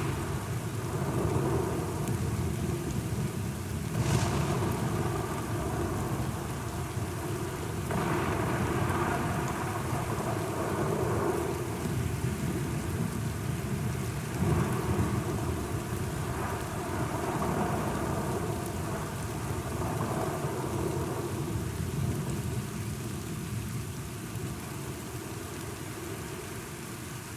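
Thunderstorm: steady rain with thunder rumbling in rolling swells, and louder claps about four seconds in and again about halfway through.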